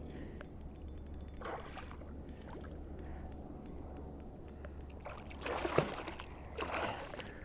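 Water splashing and sloshing beside a kayak while a hooked flathead is played to the boat, with short splashes about a second and a half in and again twice near the end. A quick run of light ticks about a second in, and scattered single ticks.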